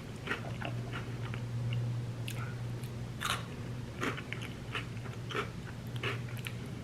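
Close-up crunching and chewing of spicy Cheetos-style chips smothered in queso and sour cream, with irregular crisp crunches every second or so, over a steady low hum.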